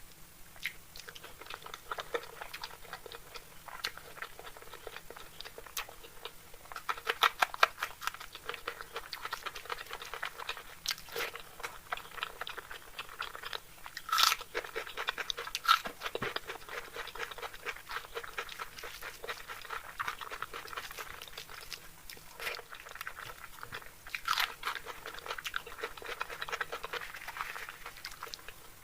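Close-up chewing and mouth sounds of someone eating egg curry with rice: a steady run of sharp clicks, thickest about seven seconds in, with a couple of louder single clicks near the middle.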